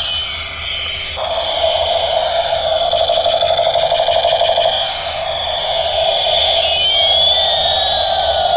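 Battery-operated toy helicopter's electronic sound effects: warbling, siren-like tones that pulse rapidly for a few seconds, then a tone that splits into one rising and one falling sweep near the end.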